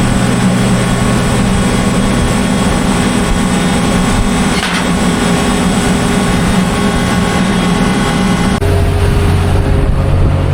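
Diesel engine of a cotton stripper running steadily at working speed. About eight and a half seconds in the sound changes abruptly to a deeper hum.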